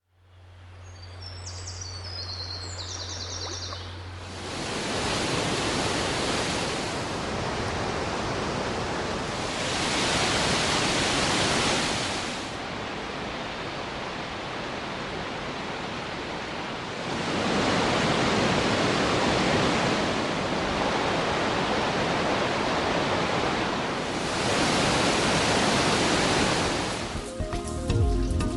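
Rushing water running loud and steady, swelling and easing every few seconds. In the first four seconds there is only a low hum with a few faint high tones.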